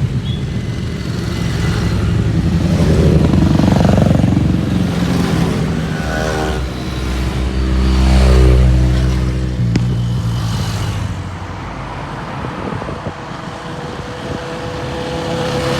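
Motorcycle engines running as several bikes ride past, their engine notes rising and falling in pitch. The loudest and closest one passes about eight seconds in and fades out just before ten seconds.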